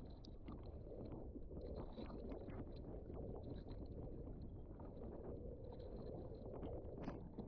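Faint water lapping and splashing around a kayak, with small ticks and knocks against the hull and wind on the microphone.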